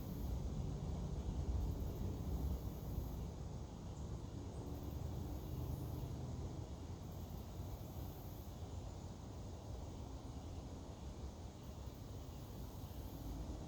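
Insects buzzing high-pitched in repeated pulses about a second long, over a steady low rumble.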